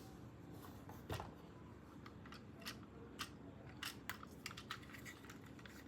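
Scattered sharp clicks and taps of hard plastic being handled, about a dozen at uneven spacing, the loudest about a second in.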